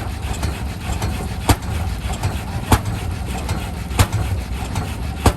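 Kerosene-burning Rumely OilPull tractor engine running slowly over a steady low rumble, with a sharp exhaust bang about every second and a quarter, four in all.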